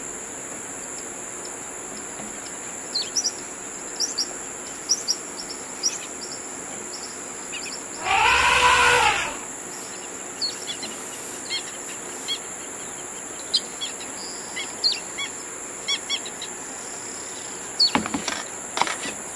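Jungle ambience: many short bird chirps and tweets over a steady hiss. About eight seconds in, one louder call lasting about a second rises and falls in pitch.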